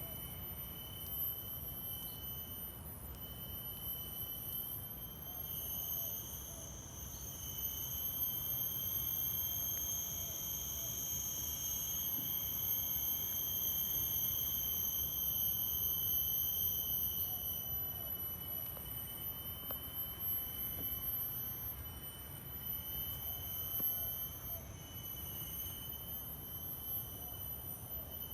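Chorus of cicadas: a steady high-pitched drone that swells louder in the middle and eases off again.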